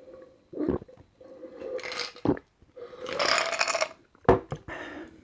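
A person gulping bottled water close to the microphone: three loud, short swallows, with breathy hissing stretches in between.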